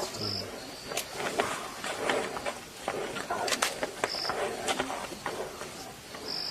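Insects chirping in the bush, a short high chirp recurring about every two seconds, over rustling with scattered sharp clicks.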